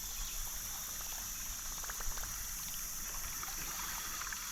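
Steady hiss of river current running over rocks around a kayak, with a few light knocks about two seconds in.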